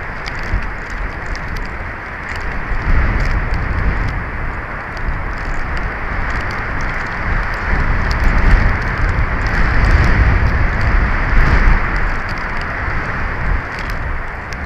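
Strong wind gusting and buffeting the microphone: a low, uneven rumble under a rushing hiss, swelling strongest from about eight to twelve seconds in, with scattered faint ticks.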